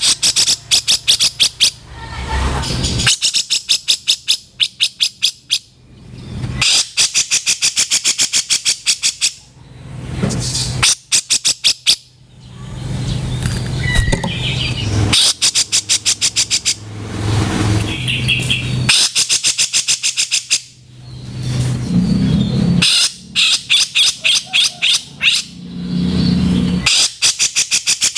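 Grey-cheeked bulbul (cucak jenggot) giving its harsh, rough 'kasaran' calls: rapid bouts of sharp notes, about eight a second, each bout lasting a few seconds, repeated again and again with short gaps between.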